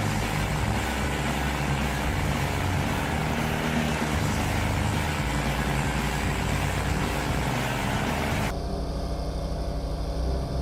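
Heavy machinery engine running steadily under load with a broad mechanical hiss; about eight and a half seconds in the hiss drops away suddenly, leaving a lower engine hum.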